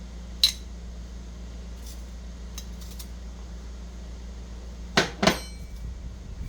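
Kitchen utensils and dishes clinking: one sharp clink about half a second in, a few faint taps, then two louder knocks near the end, the second ringing briefly. A low steady hum runs underneath.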